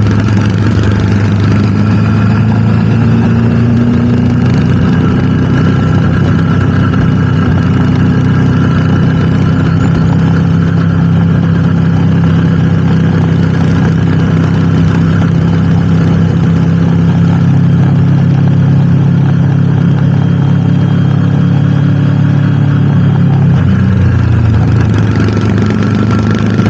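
Motorcycle engine running at a steady speed, its pitch holding nearly constant, with a slight drop in pitch near the end.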